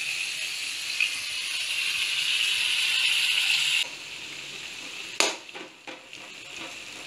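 Grated pineapple sizzling in hot ghee in a kadai: a steady hiss that builds and then drops off abruptly a little after halfway. In the last couple of seconds a metal spatula scrapes and clacks against the pan as the mixture is stirred.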